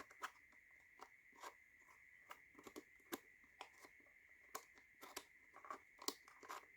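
Faint, irregular clicks and taps of laser-cut wooden tiles being slid and knocked into place in a slide picture puzzle box.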